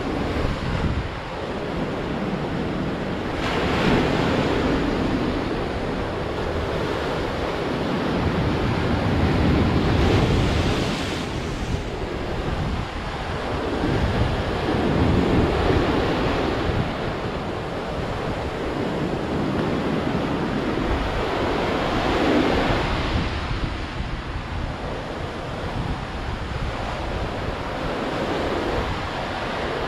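Sea waves breaking and washing on the shore, swelling louder every five or six seconds, with wind rumbling on the microphone.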